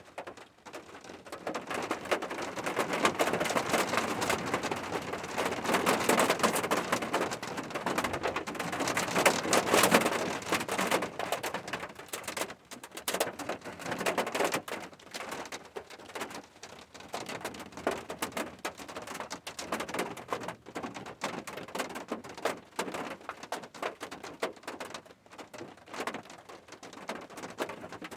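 Rain falling on a surface as a dense patter of drops. It swells heavier for the first ten seconds or so, then eases into lighter rain with more separate drops.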